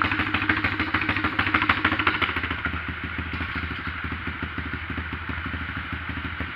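125cc Apollo pit bike's single-cylinder four-stroke engine running with quick, even exhaust pulses. It is louder for the first couple of seconds, then settles to a quieter, steady idle.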